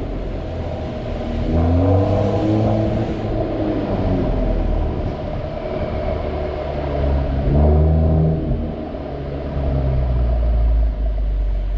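Mercedes-AMG E53's turbocharged straight-six engine running under way with a deep rumble, its pitch rising and falling twice as the revs climb and drop.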